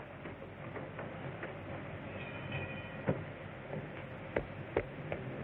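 Train running along the track: a steady rumble with a few irregular clanks and knocks from the rails and cars.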